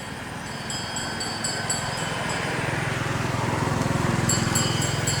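A motor engine drawing closer and growing steadily louder, with high, thin chirps in quick groups over it.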